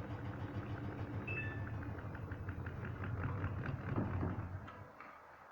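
Front-loading washing machine drum spinning with an unbalanced load: a steady low hum with a rapid knock about five times a second from the off-centre clothes. It stops suddenly near the end.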